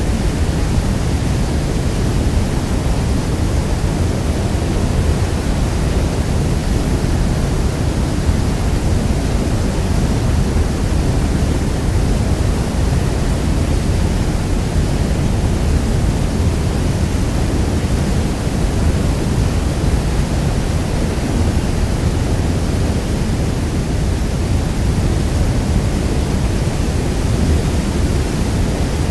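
Niagara Falls thundering: a steady, unbroken roar of falling water, heaviest in the low rumble.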